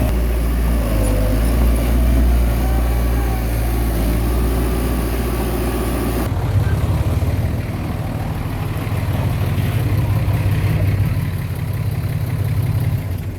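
Heavy diesel earthmoving machinery running steadily. About six seconds in, the sound switches abruptly to a different engine note with a faster low throb.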